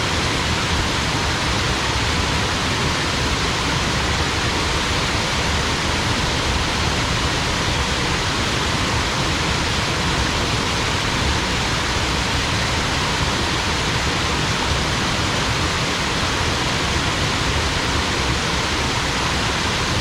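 Small waterfall pouring steadily, an even, unbroken rush of falling water.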